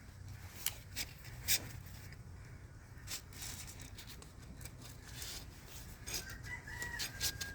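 Light clicks and rubbing of small objects being handled: a few clicks in the first seconds, one about three seconds in, and a quick run of clicks near the end.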